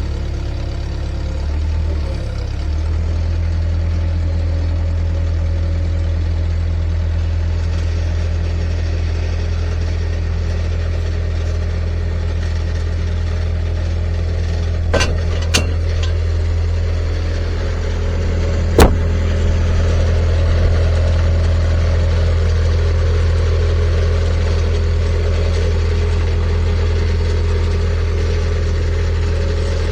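An engine running steadily at an even speed, with a few short sharp knocks about halfway through and a louder one a few seconds later.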